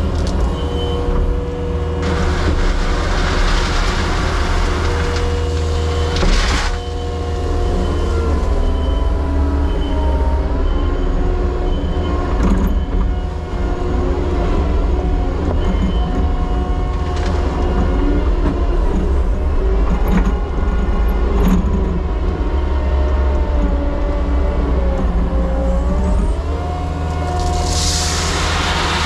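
Diesel engine of a piece of compact excavation equipment running steadily, its pitch rising and dipping as the hydraulics are worked. Several stretches of rushing noise pass over it.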